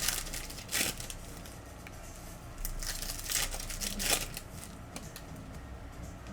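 Foil trading-card pack wrappers being torn open and crinkled by hand, in short bursts about a second in and again around three to four seconds in.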